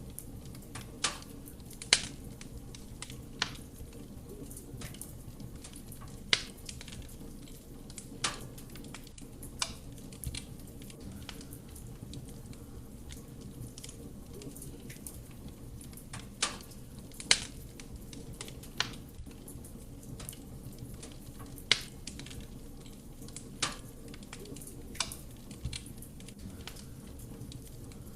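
Wood fire burning in a fireplace: a steady low rumble of flame with sharp crackles and pops from the burning logs every second or two.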